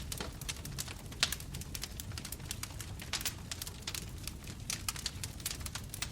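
Bonfire crackling: a steady stream of sharp pops and snaps from burning wood over a low, steady rumble, with one louder crack about a second in.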